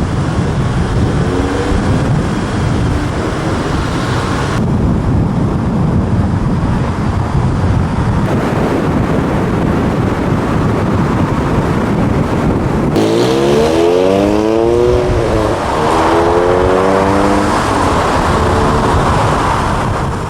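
Car engines and tyre roar on the road, with the sound changing suddenly a few times. About 13 s in, an engine revs up under hard acceleration, dips at a gear change, and revs up again.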